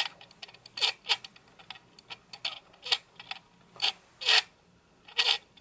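Optical image stabiliser (OSS) of a Sony SEL50F18 50mm lens grinding in short, irregular scraping bursts as the camera is shaken back and forth; the loudest comes about four seconds in. The owner feels the grinding is not right for the lens.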